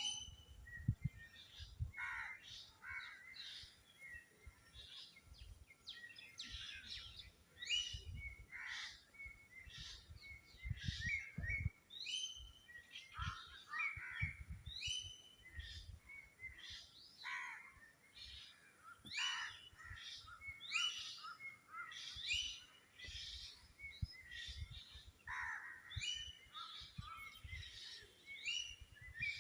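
Several birds chirping and singing in a busy chorus of short, overlapping calls, with irregular low thuds underneath.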